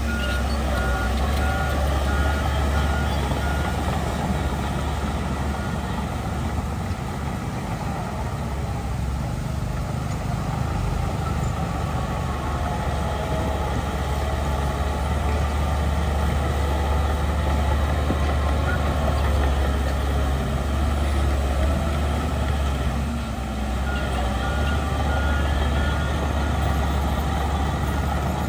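Heavy diesel earthmoving machinery running steadily with a deep engine hum. A reversing alarm beeps repeatedly in the first few seconds and again near the end.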